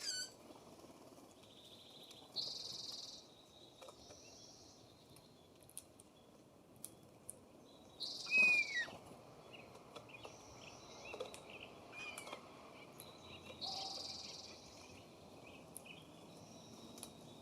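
Wild songbirds calling at a feeder over a steady low background noise: short buzzy calls come three times, a few seconds apart, and scattered chips are heard. The loudest call is a sharp falling whistle about eight seconds in.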